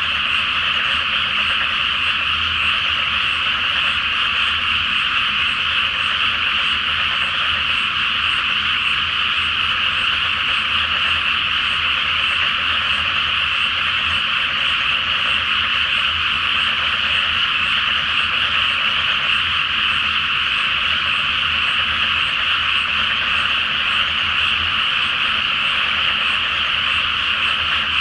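A large chorus of rice-paddy frogs calling all at once, a dense, continuous wall of croaking that holds steady without a break.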